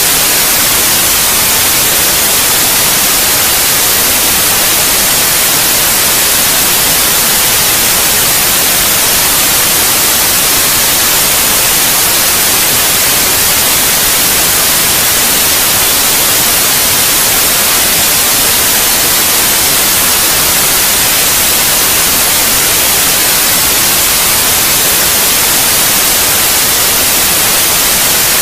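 Steady white noise played for lulling a baby to sleep: a loud, even hiss, strongest in the high frequencies, without any change.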